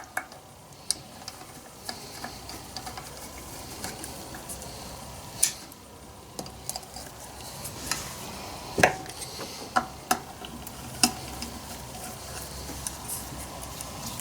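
Small metal chainsaw parts and hand tools being handled on a workbench: irregular light clicks and taps over a faint scratchy rubbing.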